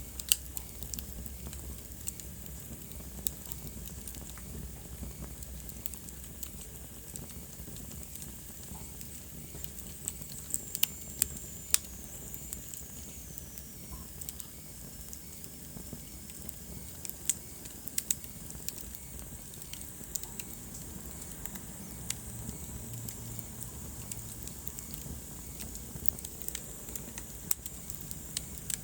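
Wood fire burning in a fireplace: a steady low rumble and hiss of the flames with irregular sharp crackles and pops from the burning logs. About ten seconds in, a faint high whine slides slowly down in pitch.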